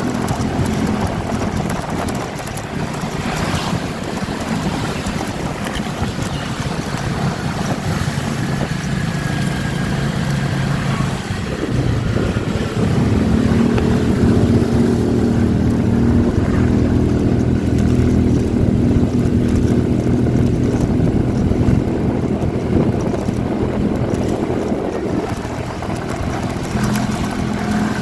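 Motorcycle engine running while riding, with wind buffeting the microphone. About halfway through the engine gets louder and its note rises, holding there until near the end, when it drops back.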